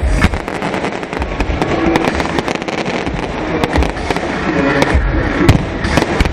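Fireworks display: a dense run of bangs and crackling, with one loud bang about five and a half seconds in.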